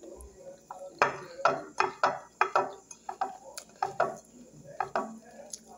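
A person chewing a mouthful of fried jabá (dried beef) and boiled banana close to the microphone: a run of sharp, wet mouth sounds, about two to three a second, starting about a second in.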